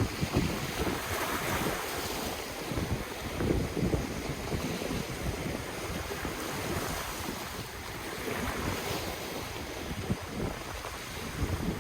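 Ocean surf washing onto the shore, swelling and easing, with wind gusting on the microphone as an uneven low rumble.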